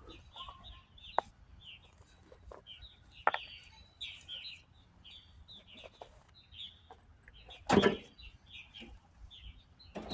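Birds chirping over and over in short calls, with a few sharp clicks and one loud clunk near the end.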